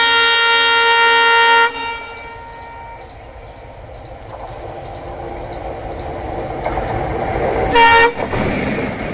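Bangladesh Railway diesel locomotive sounding its air horn in a long blast that cuts off about two seconds in, then the train's rumble growing louder as it approaches. A second, short horn blast near the end as the locomotive passes close, followed by the noise of the passing train.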